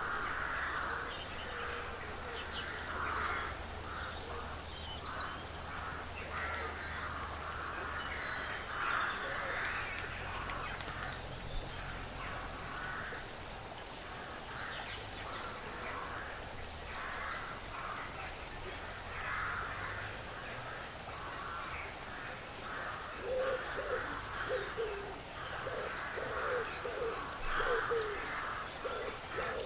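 Woodland bird chorus: many birds calling over one another in a dense, continuous chatter, with a thin high chip every few seconds. In the last third, a bird joins with a low call repeated in a steady series.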